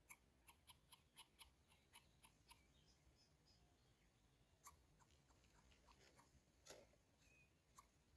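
Faint, sharp clicks and snaps: a quick run of about eight in the first two and a half seconds, then a few scattered ones, with a slightly louder snap about two-thirds of the way through.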